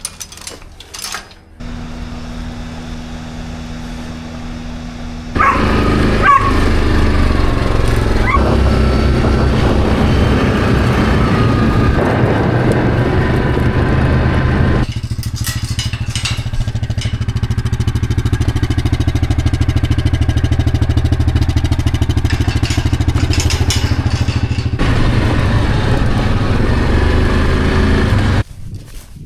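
A vehicle engine runs steadily at first, then much louder from about five seconds in, with brief squeals soon after. Its sound changes twice before it drops away near the end.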